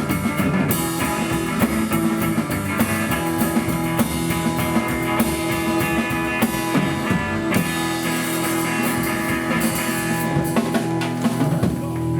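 Live rockabilly trio of electric guitar, upright double bass and drum kit playing a song with a steady beat.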